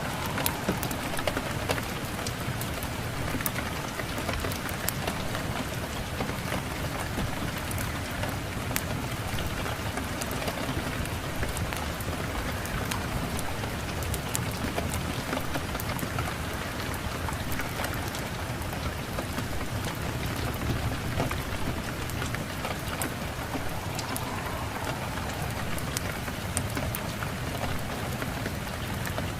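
Steady rain, dense and even, with many small sharp crackles and pops scattered throughout, as from a wood fire burning alongside the rain.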